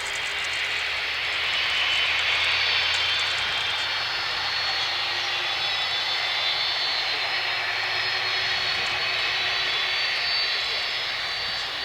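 Jet engines of a Boeing 767-300ER running steadily: a broad rush with a thin high whine over it.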